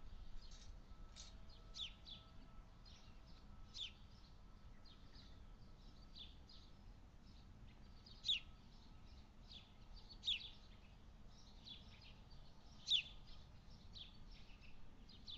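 Small birds chirping: a steady string of short, high, downward-sweeping chirps, faint overall, with three louder single chirps in the second half.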